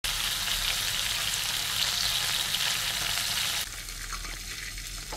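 Prawns and minced garlic pan-frying in oil in a wok, a steady sizzle that drops to a quieter sizzle about three and a half seconds in.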